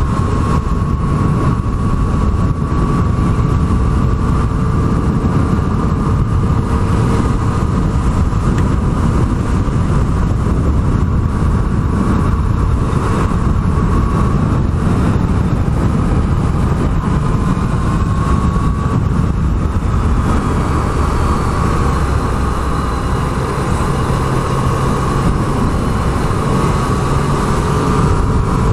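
Yamaha MT-09's inline three-cylinder engine running at cruising speed under heavy wind rush, its pitch drifting slowly up and down with the throttle.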